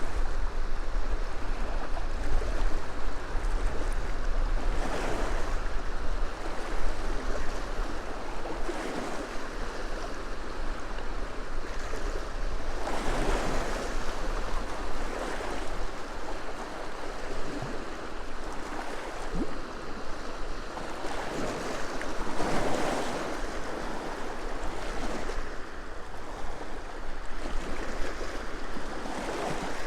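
Small freshwater waves on Loch Ness washing onto the shore in swells every few seconds, with wind buffeting the microphone as a low rumble.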